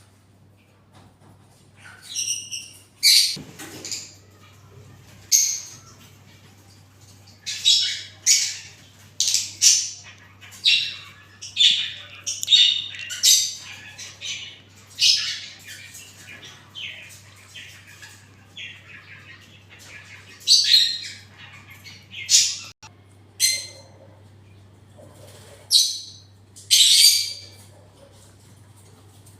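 Parrots squawking over and over: short, shrill, harsh calls in irregular bouts, sometimes several in quick succession, with short pauses between.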